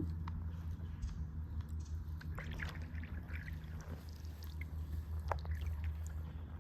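A steady low motor hum with light water splashes and drips scattered over it.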